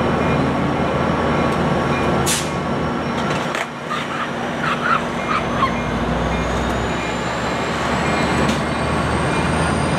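Diesel-hauled Coaster commuter train rolling slowly into the station, the locomotive's engine and the train making a steady noise. A few short squeaks come around four to five seconds in, and a faint high whine slowly rises in pitch through the second half.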